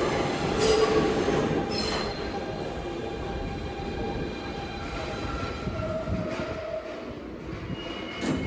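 New York City subway train slowing into a station, its wheels squealing on the rails in several shifting tones over a steady rumble that grows quieter as it comes to a stop. There is a brief sharp clunk near the end.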